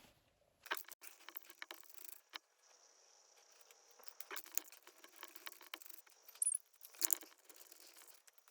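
Light clicks and small metallic clinks of hand tools and parts being handled while spark plugs are taken out of an engine, with louder knocks about a second in and again near the end.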